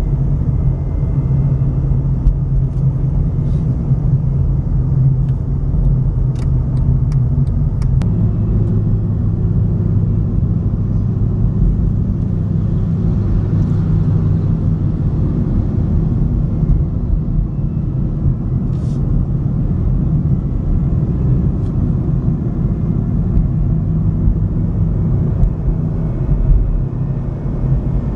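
Car engine and tyre noise heard from inside a moving car: a steady low rumble, with a few faint clicks.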